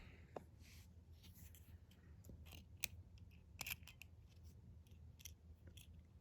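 Faint, irregular small metallic clicks and scrapes of a lock pick and tension wrench working the pin tumblers of a brass Master Lock 140 padlock during single pin picking.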